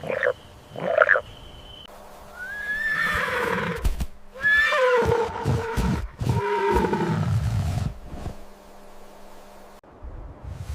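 Animal calls: a couple of short croaks in the first second, then two long calls that start high and fall in pitch, each lasting a few seconds.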